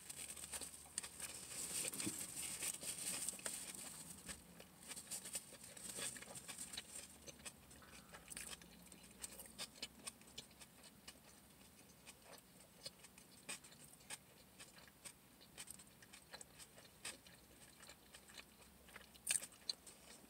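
A person chewing a mouthful of ham, egg and cheese flatbread sandwich close to the microphone, with small wet mouth clicks; louder in the first few seconds, then quieter.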